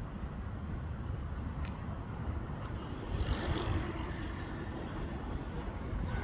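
Steady low rumble of road traffic, swelling about three seconds in as a vehicle goes by.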